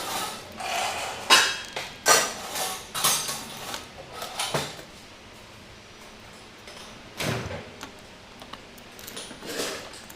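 Small metal carburetor parts and tools being handled on a workbench: a series of separate knocks and clinks, the loudest two a little over a second in and at about two seconds, then quieter clatter with gaps between.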